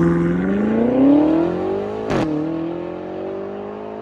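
Ducati Monster's L-twin engine running through an SC Project aftermarket exhaust under way. It revs up through the first second, drops sharply for a moment about two seconds in, then pulls up again slowly.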